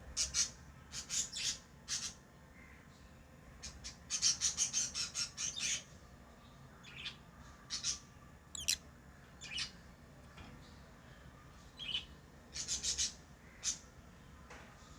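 Lovebirds making short, sharp, high-pitched chirps and squawks in scattered clusters, with a quick run of calls about four to six seconds in.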